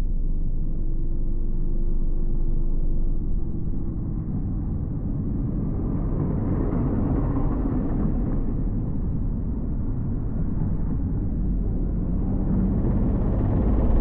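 Car driving on a road: steady low rumble of engine and tyre noise, swelling a little about halfway through and again near the end.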